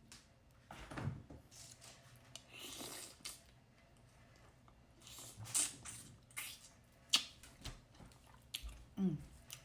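Close-miked eating of a spicy Cajun seafood boil (crawfish, crab, shrimp): chewing with irregular wet clicks and smacks. There is a short voiced sound near the end.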